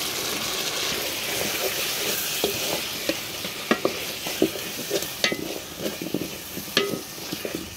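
Fish pieces sizzling in hot spiced oil in an aluminium pot. The sizzle is strongest in the first couple of seconds; from about two and a half seconds in, stirring adds sharp clacks against the pot.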